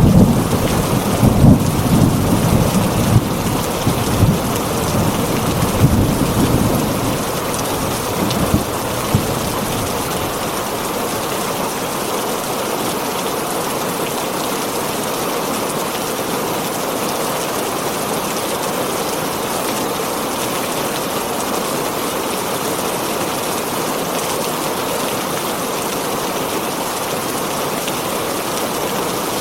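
Heavy rain on a tin roof, steady throughout, with thunder rumbling through the first several seconds before dying away.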